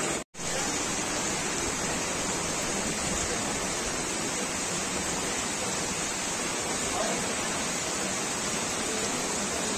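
Heavy rain falling steadily, an even hiss of rain on roofs and the street. The sound cuts out for a moment just after the start.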